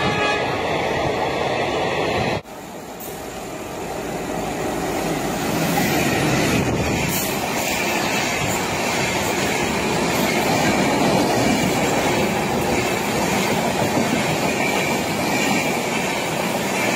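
Railway train running on its rails, a steady rolling rumble; it cuts off abruptly about two and a half seconds in and swells back up over the next few seconds, as if a train is drawing near.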